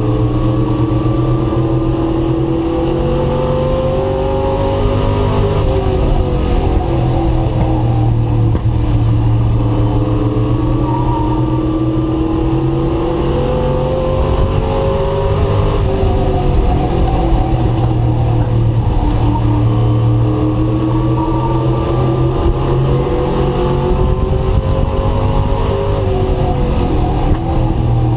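Race truck's engine heard from the onboard camera, running loud and flat out. Its pitch climbs for several seconds and then drops, about three times, as the truck accelerates down the straights and lifts for the turns of a short oval.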